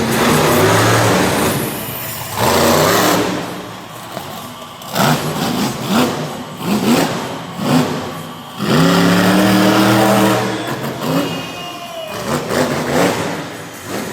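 A vehicle engine revving hard in repeated bursts, its pitch climbing and dropping, loudest about two-thirds of the way through.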